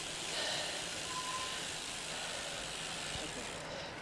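Steady hiss of bicycle tyres rolling on a soaking wet road, mixed with wind noise on the mic. A short faint high tone sounds about a second in.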